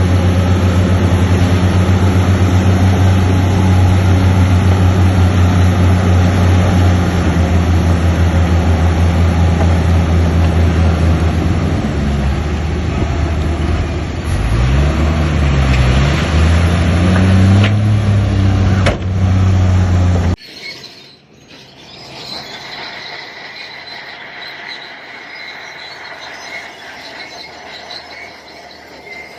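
Bulldozer's diesel engine running hard, its revs dipping and climbing again about two-thirds of the way through. About twenty seconds in it cuts off suddenly, and a much quieter high-pitched squealing follows.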